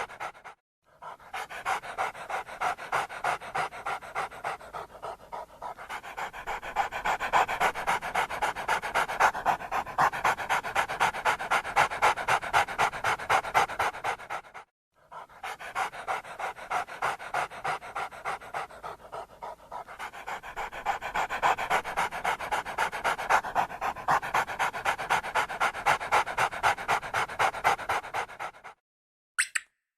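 Dog panting rapidly and steadily, about three to four quick breaths a second. It breaks off briefly twice and stops near the end.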